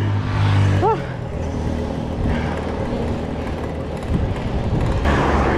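Steady low rumble of wind and road noise on a bicycle rider's camera microphone while riding. A short voiced sound comes about a second in, and a louder rush of noise swells near the end.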